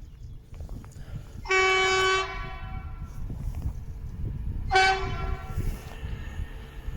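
Train horn sounding two short blasts about three seconds apart, over a steady low rumble.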